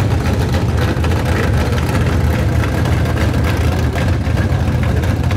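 Two drag cars, a Plymouth Barracuda and a Chevrolet S-10 pickup, idling at the start line: a loud, steady low engine rumble with no revving.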